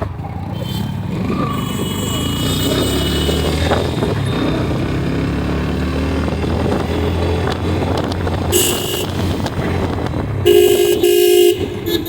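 Steady engine and road noise from a motorcycle riding through traffic, with a vehicle horn honking loudly for about a second and a half near the end.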